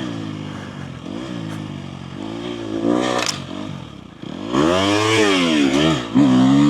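Dirt bike engine coming off the throttle, then revving up and down in several swells, settling back to a steady high rev near the end. A short scrape or clatter sounds about three seconds in.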